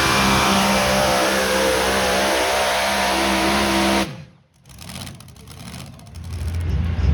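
Pulling truck's engine running hard at high revs, its pitch wavering, then cutting off abruptly about four seconds in. After a brief lull a lower, pulsing engine rumble builds near the end.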